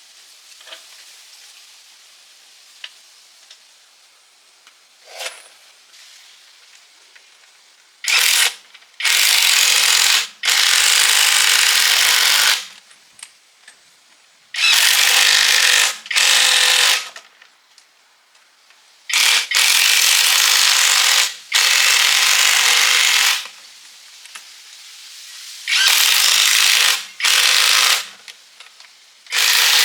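A handheld power tool run in about nine loud bursts of one to two seconds each, with short pauses between, after several fairly quiet seconds with a few faint clicks.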